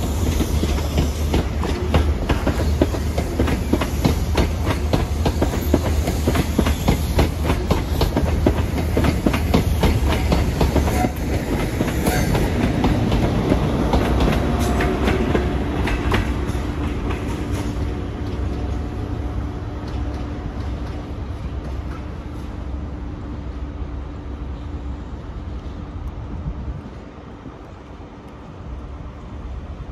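ScotRail HST with Class 43 power cars moving past, its wheels clicking over the rail joints in a dense run of clicks. After about fifteen seconds the clicking dies away, leaving a steady hum that fades as the train pulls away.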